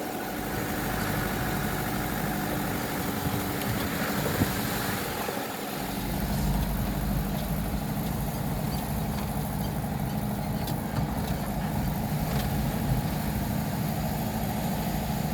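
Vehicle engine running steadily with road rumble, growing louder about six seconds in.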